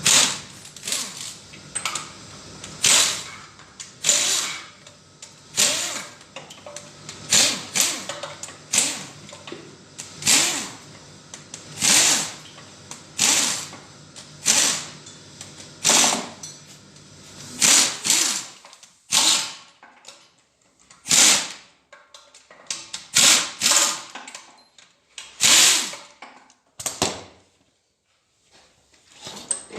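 A power wrench spinning bolts out of an engine in short bursts, roughly one a second, coming sparser toward the end with a short pause.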